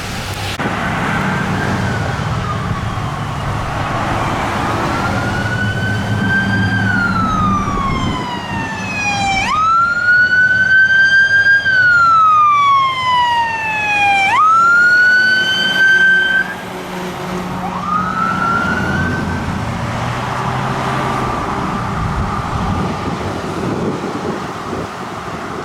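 Fire truck siren wailing up and down three times, each cycle jumping up, rising a little, then sliding slowly down, before a short final rise. A heavy engine rumbles underneath.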